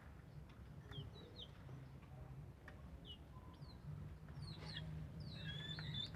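Faint, short, high chirps of small birds, scattered and falling in pitch, with a quick cluster of them near the end, over a steady low hum.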